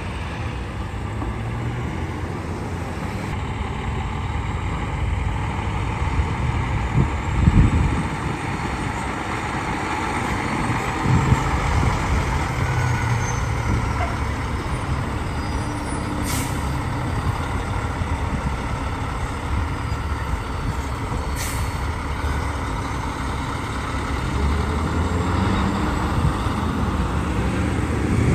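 Road traffic with heavy trucks going by: a steady rumble of engines and tyres that swells louder about seven seconds in, with two sharp clicks later on.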